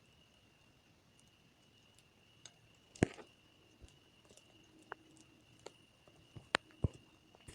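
Campfire crackling: scattered sharp pops and snaps, the loudest about three seconds in and a few more near the end, over a faint steady high tone.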